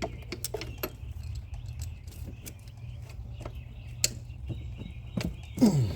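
Irregular metallic clicks and taps of a hand tool, a ratchet or wrench working a bolt, over a steady low hum.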